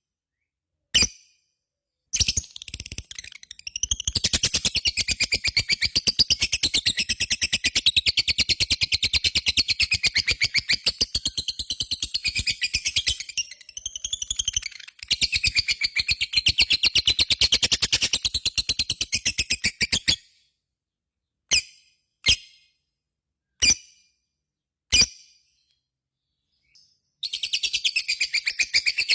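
Lovebird singing its long 'ngekek' chatter: a long, rapid run of sharp, high notes with a short break partway, then four single sharp notes spaced apart, and another rapid run starting near the end.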